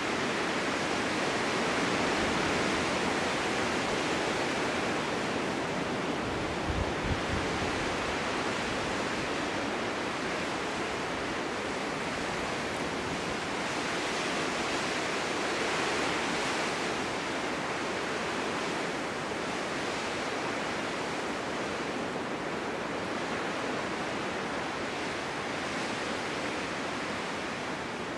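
Snowstorm wind blowing steadily through open ground, swelling and easing in slow gusts, with a brief low rumble about seven seconds in.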